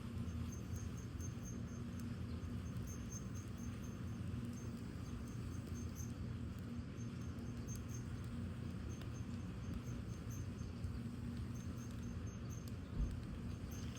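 Crickets chirping in a steady run of short, high pulses over the low rumble of a wood fire burning in a fire pit, with a few faint crackles and a soft thump near the end.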